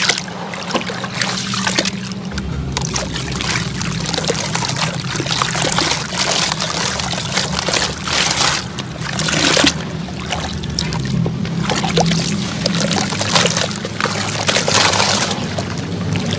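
Dry sand-cement lumps crumbling and falling apart: a dense crackle of small clicks with trickling grains, swelling louder several times. Steady background music plays underneath.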